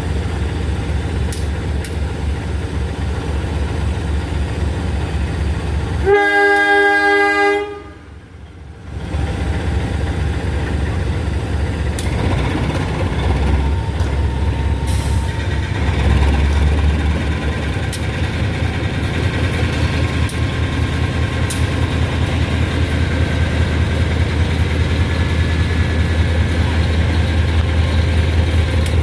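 Train running with a steady low rumble, its horn sounding once about six seconds in for roughly a second and a half. The sound drops out sharply for about a second just after the horn, then the rumble returns.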